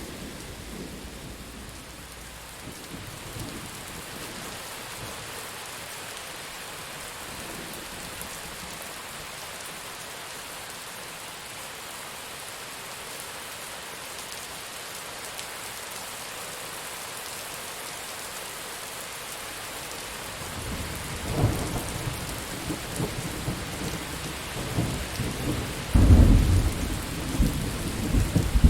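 Steady rain with thunder. A rumble fades away at the start, then about two-thirds of the way through thunder rolls in again and breaks into a loud clap near the end, rumbling on after it.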